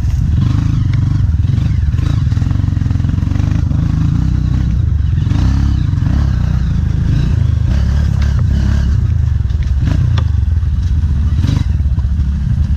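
Honda CRF trail bike's single-cylinder four-stroke engine running steadily, heard from on the bike, with scattered knocks and clatter as it rides over a rough, wet trail.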